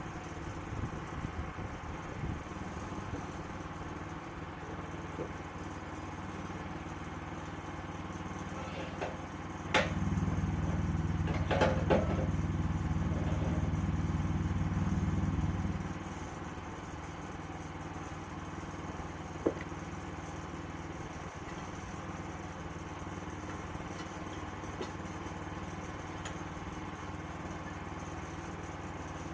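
Sawmill engine running steadily. About ten seconds in a sharp clack sounds and the machine gets louder for about six seconds, with some clatter, then drops back to the steady running; a single tick comes a few seconds later.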